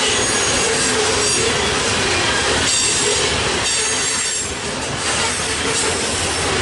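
Freight cars of a grain train rolling past on steel rails in a steady, continuous rumble, with a high, thin wheel squeal coming and going.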